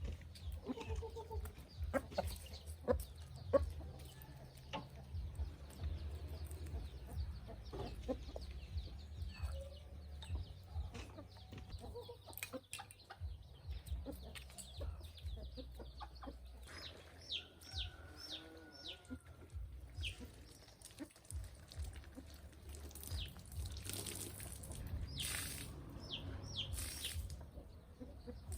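Birds calling with short high chirps, over scattered clicks and knocks and a steady low rumble.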